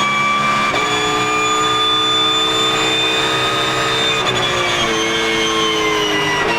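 Porsche GT3 Cup race car's flat-six engine running hard with a high gear whine over it, the pitch stepping a few times as it changes gear.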